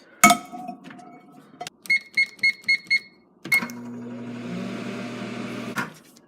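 Microwave oven: a clunk of the door, then five short keypad beeps, then the oven runs with a steady hum for about two seconds and stops with a click near the end.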